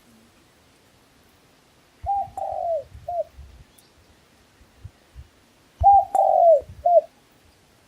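A dove cooing: two three-note phrases about four seconds apart, each a short coo, a longer falling coo and a short closing coo.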